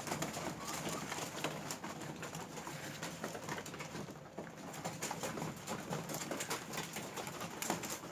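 Pigeons cooing low, over a dense run of irregular sharp clicks of beaks pecking at food.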